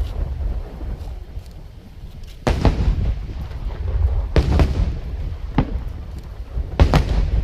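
Aerial fireworks shells bursting: three big booms, roughly two seconds apart, over a continuous low rumble with smaller pops between them.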